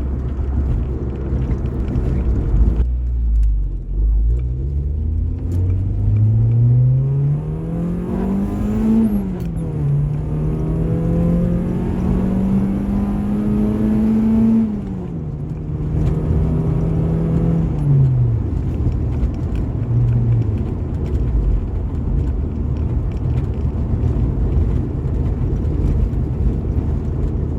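Honda H23 VTEC four-cylinder heard from inside the Accord's cabin under hard acceleration, wound out into the VTEC range. The revs climb steeply, drop sharply on an upshift about nine seconds in, and climb again. Around fifteen seconds the revs drop back, and they fall away near eighteen seconds as the car settles to cruise over a steady road drone.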